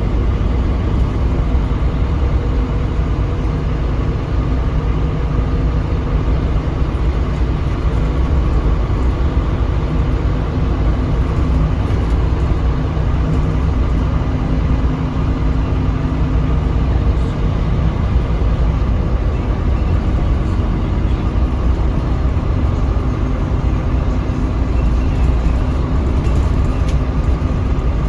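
Scania K310UB bus's five-cylinder diesel engine running under way, heard from inside the cabin: a steady low drone with road rumble, the engine note drifting slightly in pitch, and a few faint rattles near the end.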